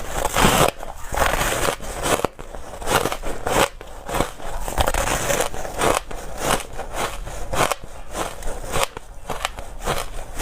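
Ice being bitten and chewed close to the microphone: repeated dry, crackling crunches, several a second, as the ice breaks between the teeth.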